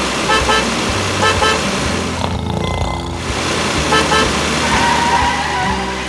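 Car horn honking in short toots, in quick pairs about three times, over a steady background din.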